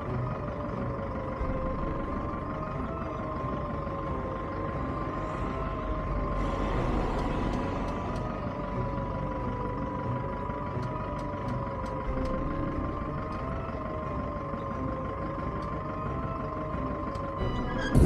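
Motorcycle engine running steadily at low speed, its pitch gently rising and falling, with a constant thin whine over it.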